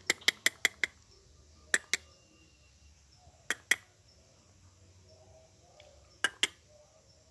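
Sharp clicks in quick runs: six in the first second, then pairs about 2, 3.5 and 6 seconds in. Between them come a few faint, low coos, likely from the zebra doves.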